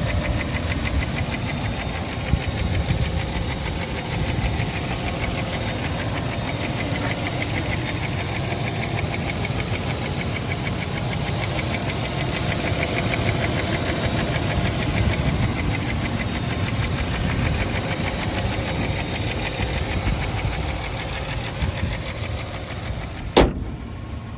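Ford F-350 pickup's engine idling steadily with a fast, even ticking clatter. A single sharp click sounds about a second before the end.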